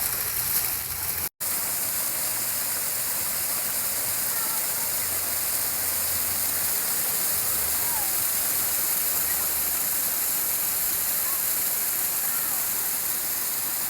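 Steady splashing of water falling in a small ornamental water feature, with a brief dropout to silence about a second in.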